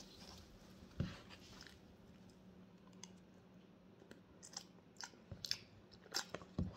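Faint close-up chewing: scattered short wet mouth clicks and smacks, one about a second in and a cluster of them in the last two seconds or so.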